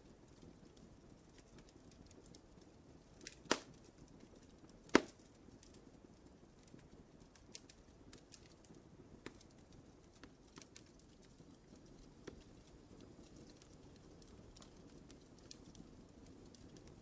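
Wood fire in a fireplace crackling softly: a low, steady hiss with scattered small ticks, and two louder pops about a second and a half apart, a few seconds in.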